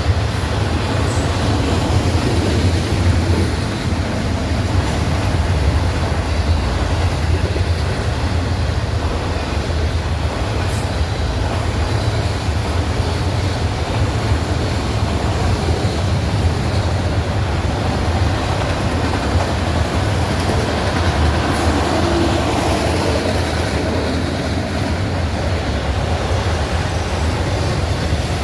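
Norfolk Southern freight train rolling past: a steady rumble of railcar wheels on the rails, with a few faint clicks.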